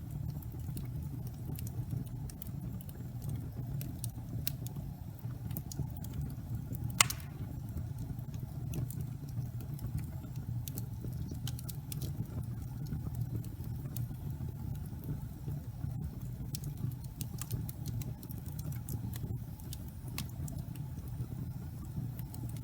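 Wood fire burning in a fireplace: a steady low rumble of the flames with scattered small crackles, and one sharp, louder pop about seven seconds in.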